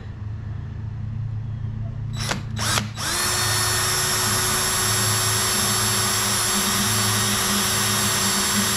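Cordless drill given two short trigger blips, then run steadily for about seven seconds, working into soft pine. A steady low hum sits underneath.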